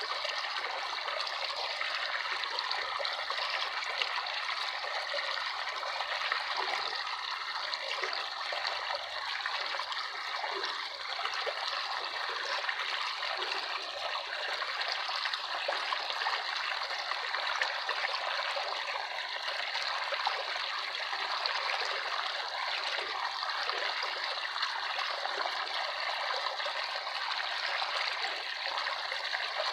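Water flowing steadily in a continuous trickle, like a small stream.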